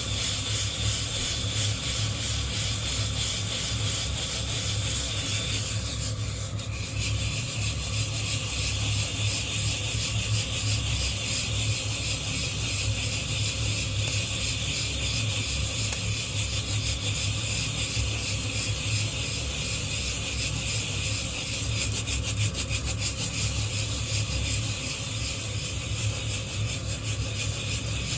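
Green coffee beans shaken in a hand-held wire-mesh roasting net, a continuous rustling and scraping of beans against the mesh.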